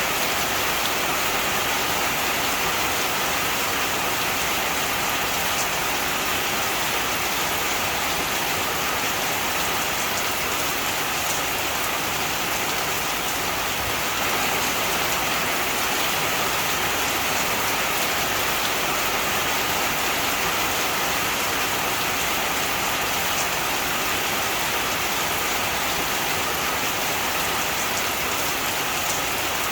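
Heavy rain falling steadily, a dense even hiss of drops on surfaces with faint scattered drop ticks.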